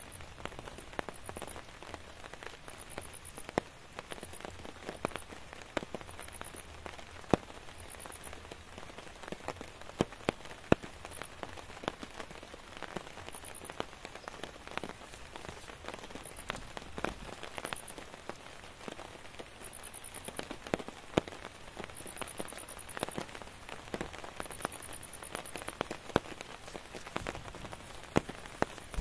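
Steady rain falling, with single heavy drops tapping sharply and irregularly on a surface. A high, pulsed chirping comes and goes in short runs.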